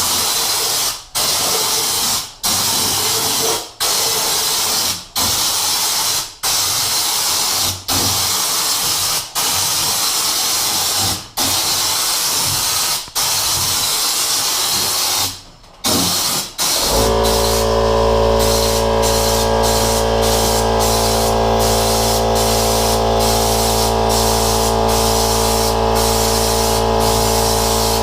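Air-driven spray gun hissing in repeated one- to two-second bursts with short breaks, about a dozen, as it sprays bed-liner coating in test shots to check the texture. About two-thirds of the way through the spraying stops and steady background music takes over.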